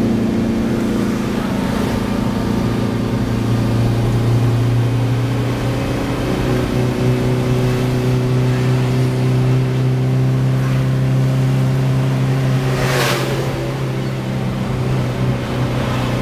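Daihatsu Xenia 1.3's four-cylinder engine pulling steadily uphill, heard from inside the cabin. About thirteen seconds in, another vehicle rushes past.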